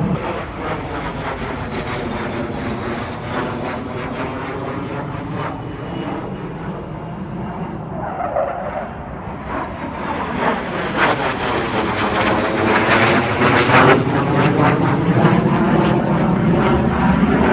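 F-16 fighter jet noise passing overhead: a continuous jet roar with a sweeping, phasing tone as the aircraft moves, swelling a little past halfway and staying loud to the end.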